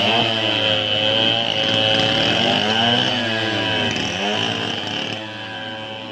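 Small engine revving up and down repeatedly over a steady high whine, fading away near the end.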